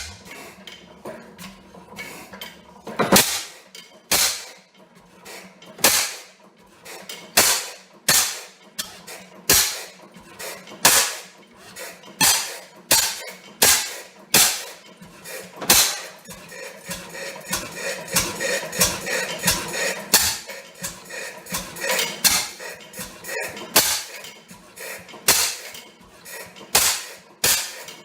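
Old Fairbanks Morse engine firing up and running slowly, each firing a sharp exhaust crack, about one a second and irregularly spaced, over a steady low mechanical hum.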